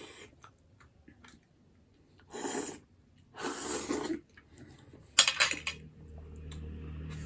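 Close-up eating sounds: three short, noisy slurps as buffalo bone marrow is sucked from the bone, about a second apart. The last is the sharpest and most crackly.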